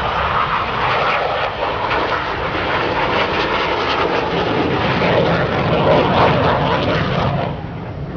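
Jet fighter engine noise, a loud crackling roar, that drops off sharply about seven and a half seconds in.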